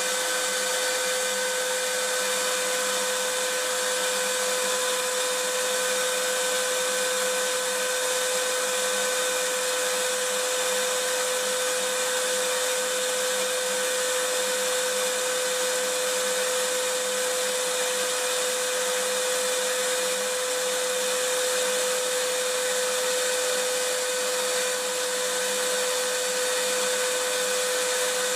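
Vacuum cleaner motor running steadily, a constant whooshing hiss with a steady whine on top.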